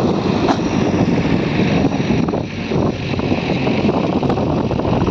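Heavy diesel machinery running steadily, a JCB 3DX backhoe loader at work loading soil, with wind noise on the microphone.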